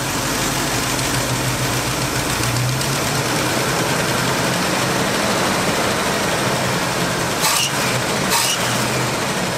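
Carbureted truck engine with a Holley 750 four-barrel idling, its idle raised a little about three seconds in as the throttle is cracked open past the transfer slots. Two brief sharp noises come near the end.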